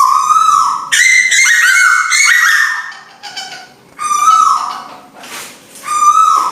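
Recorded calls of the tuwu bird played as a lure track: loud whistled notes that fall away at their ends, in phrases about every two seconds, with a faster, higher run of notes between about one and three seconds in.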